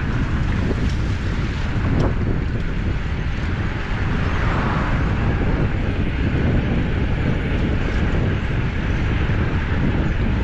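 Wind buffeting the microphone: a steady, loud low rumble of noise with no distinct events.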